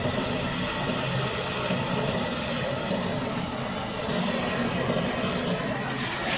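Steady machine noise: a low hum with a hiss over it, even throughout.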